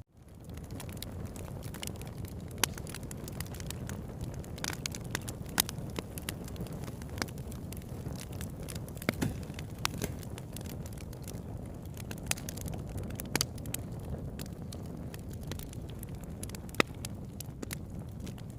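Campfire burning: a steady low rush of flames with scattered sharp crackles and pops from the wood. The sound drops out for a moment and fades back in at the very start.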